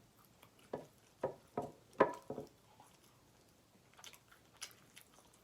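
Close-miked eating sounds: a run of short wet mouth smacks and clicks while chewing, the loudest about two seconds in, with a few fainter ones near the end.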